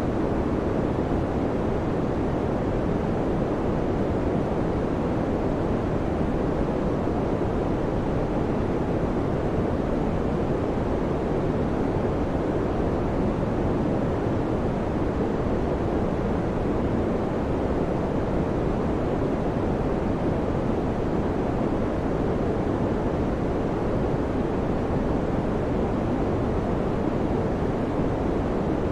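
Electric fan running steadily: an even, deep rush of air with no change in level or pitch.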